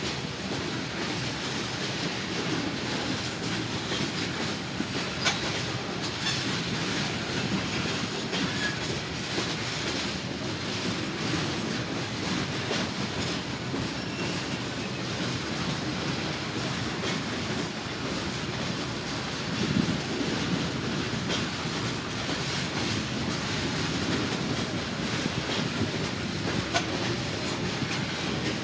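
Norfolk Southern freight train rolling steadily past, its cars' wheels clicking over the rail joints, with a slightly louder clunk about two-thirds of the way through.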